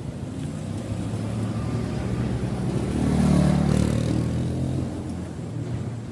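A motor vehicle's engine passing close by, growing louder to a peak about halfway through and then fading away.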